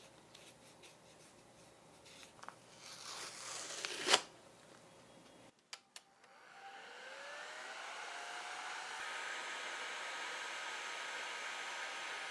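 A small electric blower motor is switched on with a click and spins up, its whine rising in pitch. It then runs steadily with a rushing airflow noise, after faint handling clicks and one sharp click.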